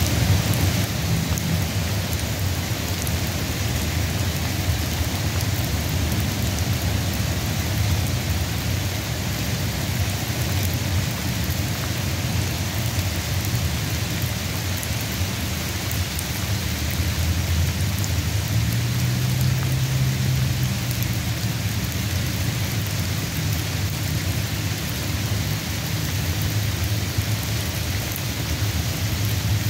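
Steady rain falling in a sun shower, an even hiss, with a low rumble underneath that swells about two-thirds of the way through.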